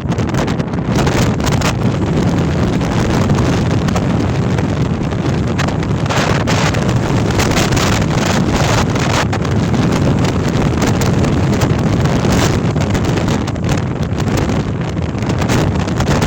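Storm-force wind hitting the microphone: a loud, continuous rumbling roar of gusts with no let-up.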